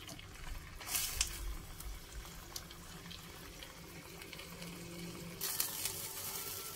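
Water spinach in a little oyster-sauce liquid sizzling and bubbling in a stainless steel wok, stirred with a metal spatula at the start. The hiss grows louder about five and a half seconds in.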